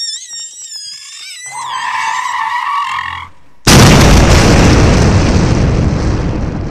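Car crash: high squealing tones, then a sudden, very loud boom about three and a half seconds in that dies away slowly over the following seconds.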